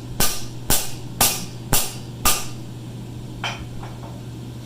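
Hammer blows on steel at a blacksmith's anvil: five sharp ringing strikes about two a second, then a pause and two lighter taps. A steady low hum runs underneath.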